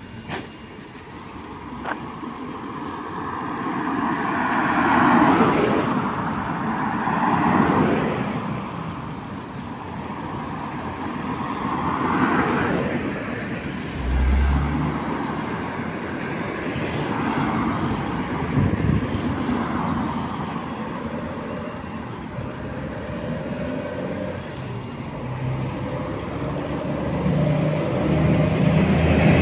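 Road traffic: a steady rush of passing vehicles, several swelling louder and fading as they go by, with a brief low thump about halfway through.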